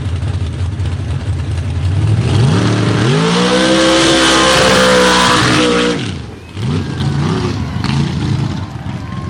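Engine of an 1800-horsepower outlaw mud truck rumbling, then revving up about two seconds in and held at high revs for about three seconds before dropping off sharply. A couple of shorter throttle blips follow.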